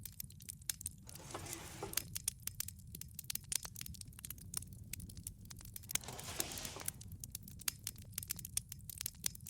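Wood fire crackling in a wood-fired pizza oven: a dense, irregular run of sharp pops and snaps over a low steady rumble, with two brief hisses, one about a second in and one about six seconds in.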